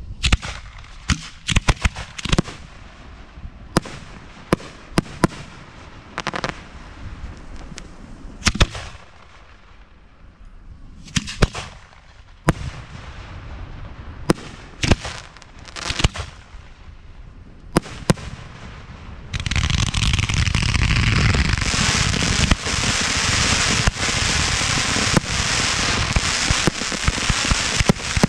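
Aerial fireworks shells fired from mortars: separate sharp bangs at irregular intervals, then about two-thirds of the way in a dense, continuous barrage of crackling bursts.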